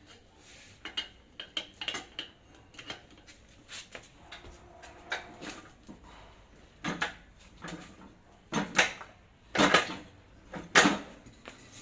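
Metal tools and parts clinking and knocking during hands-on work on a hand pallet truck's hydraulic pump, with irregular sharp strikes that grow louder toward the end.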